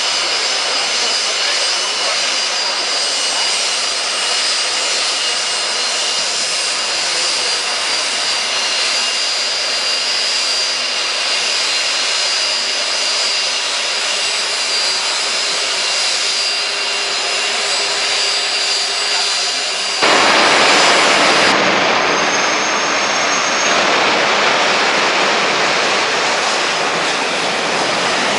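Jet engine of a jet-powered show truck running with a steady high whine over a loud rush. About twenty seconds in the sound jumps suddenly to a louder, fuller roar that holds to the end.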